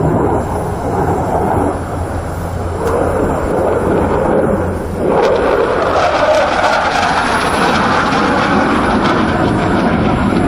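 Jet aircraft engines running in a flying display, a steady roar that swells and turns brighter about halfway through as the aircraft comes closer.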